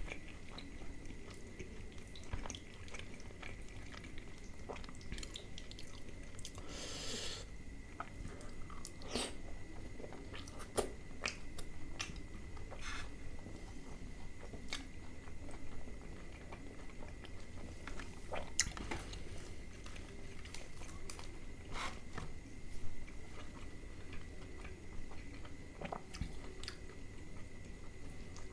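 Close-miked chewing of butter naan dipped in butter chicken gravy: wet mouth sounds with many small clicks. There is a short louder burst about seven seconds in.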